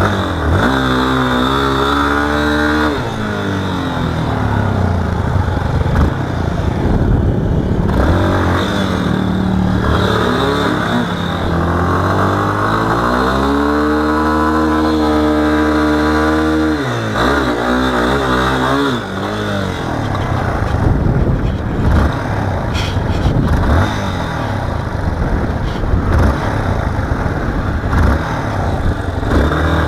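Motorcycle engine being ridden: the pitch climbs repeatedly as it revs up through the gears, then drops as the throttle eases off, with scattered knocks and rattles.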